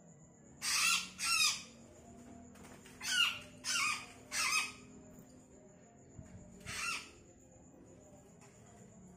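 Black-naped oriole giving harsh squawking calls: six rasping calls, two close together, then three, then one more.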